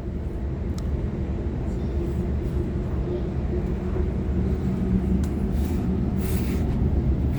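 Sydney Trains Waratah B-set electric multiple unit running at speed: a steady low rumble of wheels on track with a faint steady hum, and a brief hiss about six seconds in.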